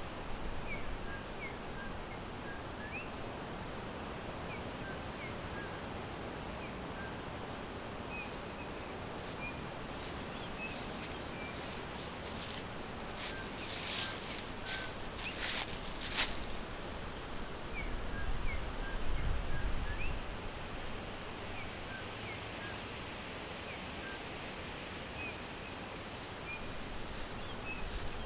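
Forest ambience: small birds chirping in short, faint, scattered chirps over a steady hiss of background noise. A few sharp clicks come about halfway through, and a low rumble swells briefly a few seconds later.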